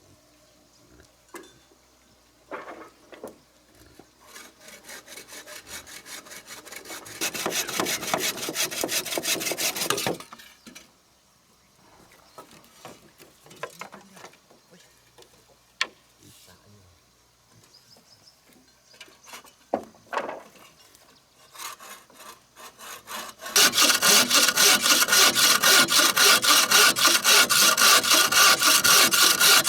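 A hand saw cutting through wood in rapid back-and-forth strokes, a few strokes a second. One bout of sawing builds up and stops about ten seconds in. A few scattered knocks follow, then a second, louder bout of sawing starts near the end.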